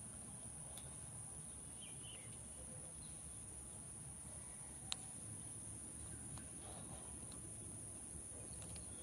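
Parrot eating, a few short sharp clicks of its beak on its food, the loudest about five seconds in, over a faint steady high-pitched whine.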